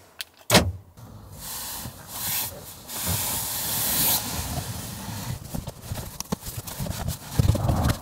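A car's door locks click shut once, sharply, about half a second in, followed by rustling and small clicks of someone moving about and handling things inside the car.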